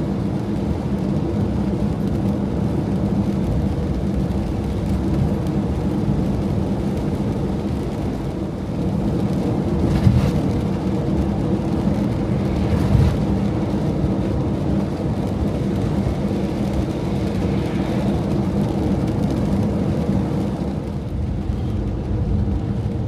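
Campervan driving on the road, a steady engine and road rumble heard from inside the cab, with a couple of brief bumps partway through.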